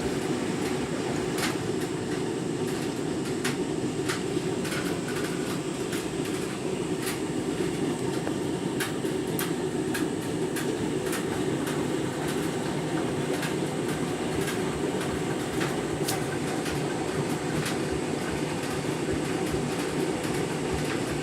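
Candy washing machine tumbling a half load through a deep rinse: a steady churning and sloshing of water in the drum, with scattered light clicks.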